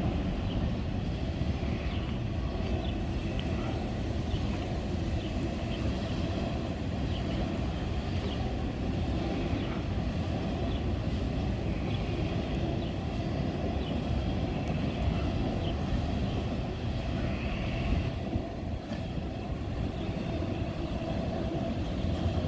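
Norfolk Southern freight train rolling past: a steady low rumble of wheels on rail, with scattered faint, short high-pitched squeals.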